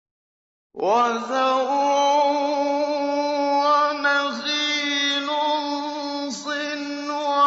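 A man's voice in melodic mujawwad Quran recitation in maqam Nahawand. It enters after a short silence and holds long, ornamented notes, with two brief breaks for breath.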